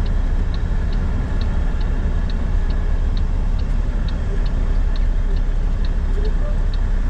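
Dashboard turn-signal or hazard flasher clicking steadily, a little over two ticks a second, over the low, steady running of the Ford F-250's 6.7 L Power Stroke V8 diesel, heard from inside the cab.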